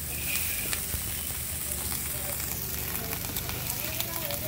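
Shredded cabbage sizzling as it stir-fries in a large wok, with a steady hiss and scattered light clicks of the steel ladle against the pan.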